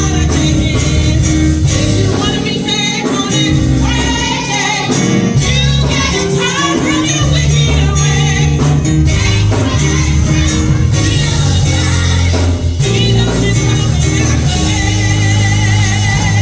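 Gospel music with singing over a band: held bass notes, wavering voices and steady percussion.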